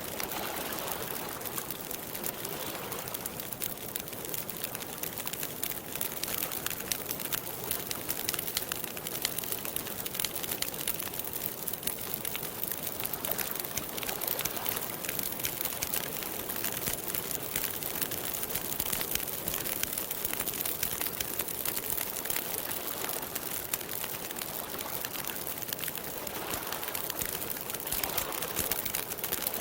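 Campfire of burning wood crackling steadily, with a dense run of small pops and snaps over a soft hiss.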